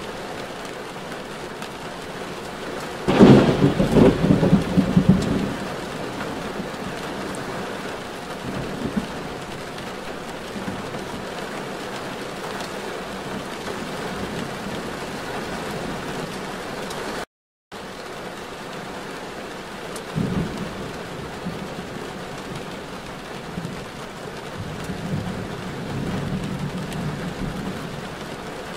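Steady rain, with a loud rumble about three seconds in that lasts a couple of seconds and a smaller one about twenty seconds in. The sound cuts out for an instant midway through.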